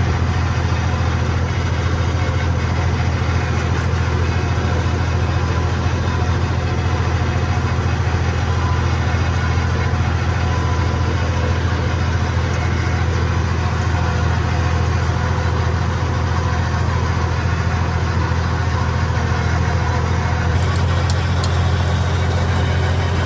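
Tractor diesel engine idling steadily, with a constant low, even drone.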